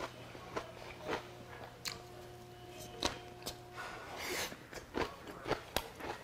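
Close-up mouth sounds of chewing a mouthful of kimchi and boiled pork: short, irregular crisp crunches and wet smacks.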